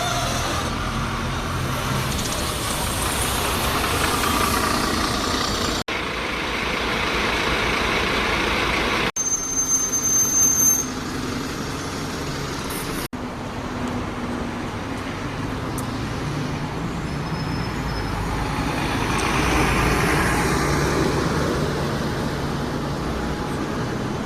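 Buses and road traffic running and passing, with engine noise rising and falling in several short edited segments. A brief high-pitched squeal stands out about nine to eleven seconds in.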